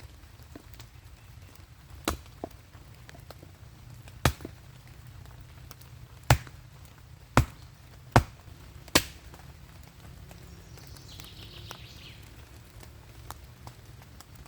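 Axe chopping firewood: six sharp strikes at uneven intervals, the last few coming about a second apart.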